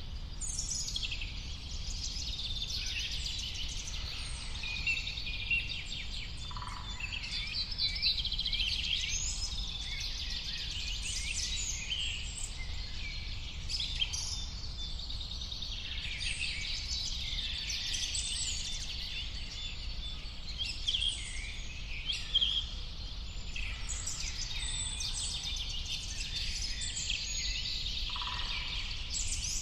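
A chorus of several birds chirping and singing at once, many quick overlapping calls and short whistles with no pause, over a faint steady low rumble.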